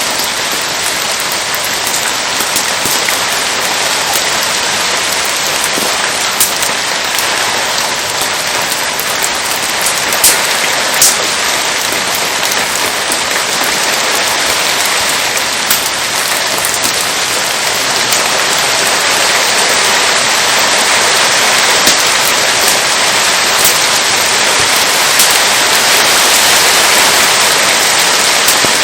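Steady rain falling, an even hiss growing a little louder in the second half, with a few isolated sharp clicks or cracks.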